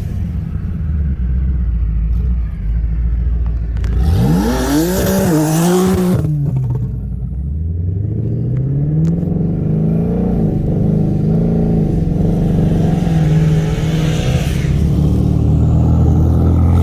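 Car engine under way: a steady drone, then a quick rev with a rush of noise around four seconds in. From about eight seconds in the engine pitch climbs steadily under hard acceleration and holds high.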